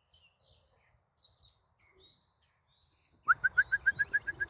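Faint small-bird chirps, then about three seconds in a sudden loud, rapid run of about a dozen short chirps, about nine a second, lasting just over a second.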